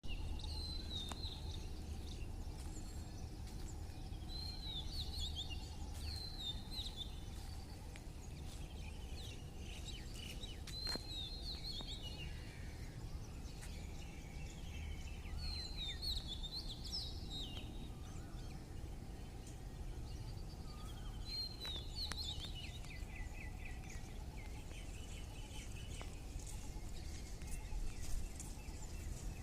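Small birds chirping outdoors: clusters of high chirps and short falling trills every few seconds, over a steady low background rumble.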